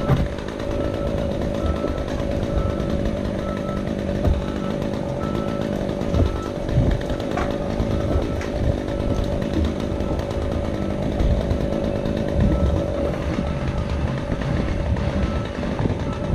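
Chainsaw running steadily at an even pitch, cutting back a Callery pear tree.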